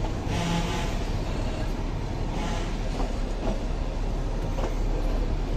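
Nilgiri Mountain Railway toy train running, heard from on board: a steady low rumble with two short rushes of hiss, one near the start and one about two seconds in, and a few light clicks.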